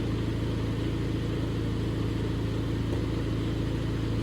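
Car engine running steadily at an even speed, a constant hum with no revving.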